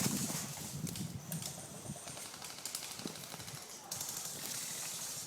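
Footsteps and rustling as someone moves over rough ground, with scattered light clicks and ticks.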